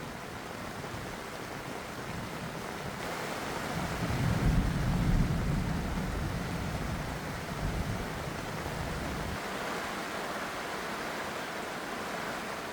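Heavy rain falling with a steady hiss. About four seconds in, a low rumble of thunder swells and then fades away over the next five seconds.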